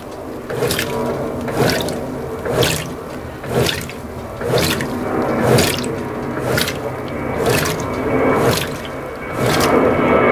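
Brastemp BWT12 top-loading washer's agitator churning water and delicate clothes on the turbo agitation setting during a long agitation. It makes a watery swish that swells about once a second with each stroke.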